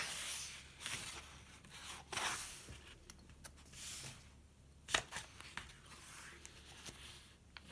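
Pages of a handmade junk journal of tea-stained papers being turned and handled: several short paper rustles and swishes, with one sharp tap about five seconds in.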